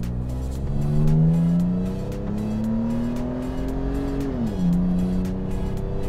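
Toyota FJ Cruiser's 4.0-litre V6 accelerating hard from a standstill, heard from inside the cabin. The engine note climbs for about three seconds, drops at an upshift about four and a half seconds in, then climbs again.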